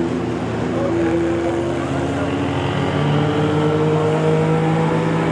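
Race trucks' engines running at a steady, moderate pace, their pitch climbing slightly a few seconds in. The field is circling on the pace laps before the green flag.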